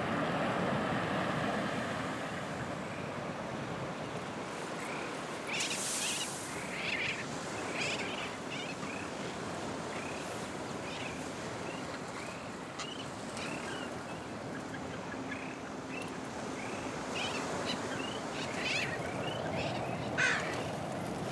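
Many short bird calls from about five seconds in, scattered and overlapping, over steady surf and wind noise.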